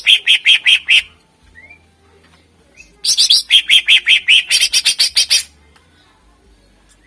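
Greater green leafbird (cucak ijo) singing: two fast runs of loud, rapidly repeated notes, about six a second, the first ending about a second in and the second lasting about two and a half seconds, with a few faint chirps between them.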